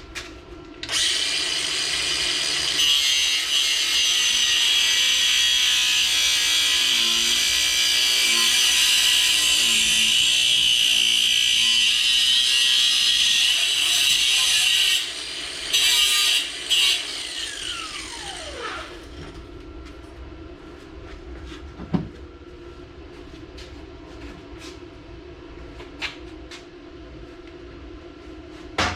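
Angle grinder cutting into steel for about fourteen seconds, then two short bursts, then winding down with a falling whine as it spins to a stop. A few light knocks of metal follow.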